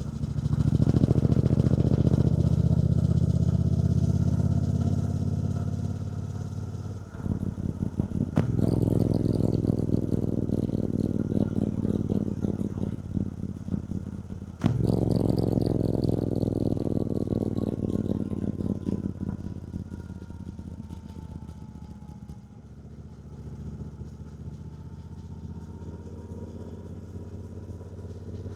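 2024 Triumph Bonneville T120's 1200 cc parallel-twin engine running on the move. It pulls loudly for the first half, with a short break about seven seconds in and a sudden jump back up at about fifteen seconds, then eases off to a quieter, steady run for the last ten seconds.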